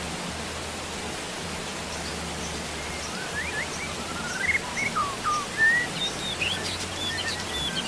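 Steady rain hiss, with birds chirping over it from about three seconds in, the chirps growing busier near the end.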